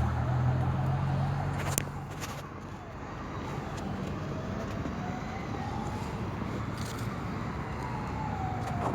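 A siren wailing in one slow rise and fall of pitch over a steady rumble of street traffic, with a sharp click about two seconds in.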